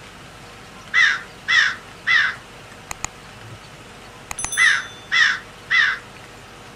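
Crow cawing: two series of three caws, each caw slightly falling in pitch, the series about three seconds apart, with a few faint clicks between them.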